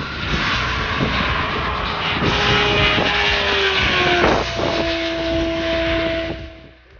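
Sport motorcycle engine running hard at highway speed, mixed with heavy wind noise. Its note sags and then settles on a new steady tone about four seconds in, and the sound fades near the end.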